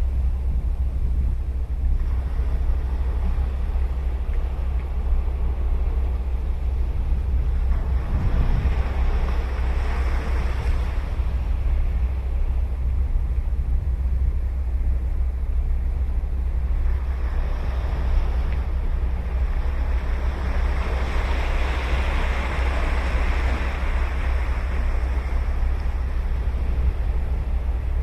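Sea waves breaking and washing up the shore, swelling once about a third of the way in and again, louder and longer, in the second half. Under them runs a steady low rumble of wind on the microphone.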